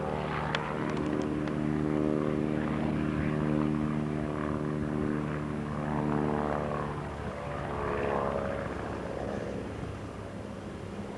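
Propeller airplane engine droning steadily in flight, its pitch bending up and down a little past the middle.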